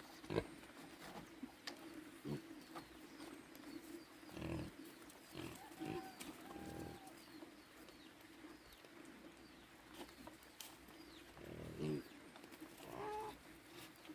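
Pigs grunting and squealing a few times, in short pitched calls, with small bird chirps and a steady low hum behind.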